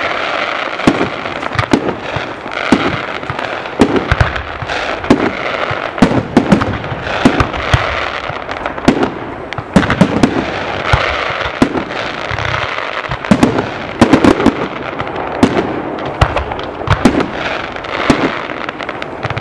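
Fireworks display: aerial shells bursting in a rapid, irregular barrage of loud bangs, several a second at times, over a continuous background of noise.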